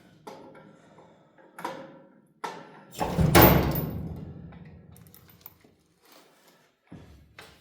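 Metal clanks and knocks from handling an engine in a truck's engine bay: several separate knocks, the loudest a heavy thud about three seconds in that rings out and fades over a couple of seconds.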